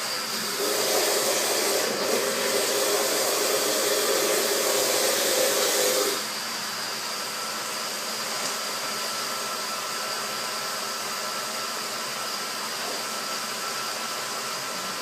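Countertop blender motor running, blending ice and milk into a thick shake. It is louder, with a low motor tone, for the first six seconds or so, then drops suddenly to a quieter, steady whir.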